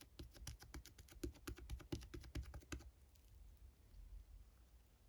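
Slime being pressed and poked by hand, a quick run of small sticky clicks, about seven a second, that stops about three seconds in.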